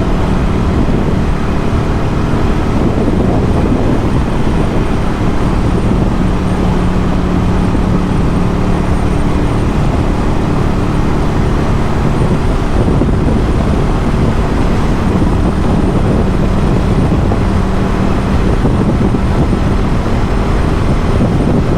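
Ducati Scrambler 1100's air-cooled L-twin engine breathing through a Termignoni exhaust, running at a steady cruise with an even engine note.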